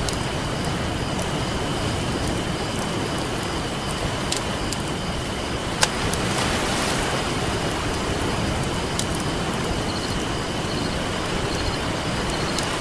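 Steady wash of ocean surf with a crackling campfire: scattered sharp crackles and one loud pop about six seconds in.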